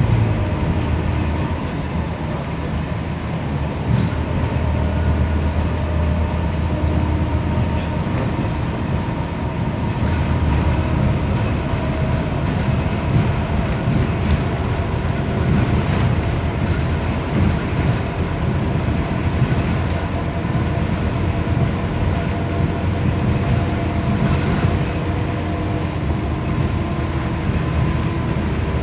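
Scania CN270UB city bus in motion, heard from inside the cabin: a steady diesel engine drone with road noise and continuous rattling of the body and fittings.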